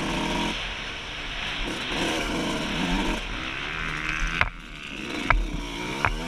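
A 2003 Suzuki RM125's single-cylinder two-stroke engine revving up and down while being ridden, with wind noise over it. The engine note drops off about four and a half seconds in, and a few sharp knocks follow.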